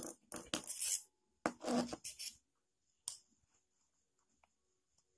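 Small metal reel parts being handled: a run of short scraping and clattering sounds while a spinning reel's spool is worked on to fit a new clicker spring, then one sharp click about three seconds in.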